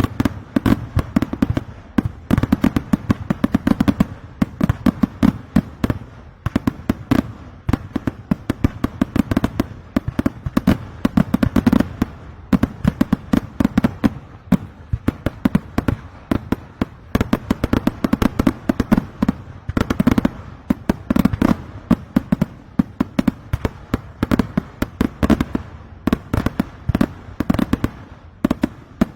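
Kerala temple fireworks (vedikkettu): a dense, continuous barrage of firecracker explosions, many sharp bangs a second, swelling and easing in waves.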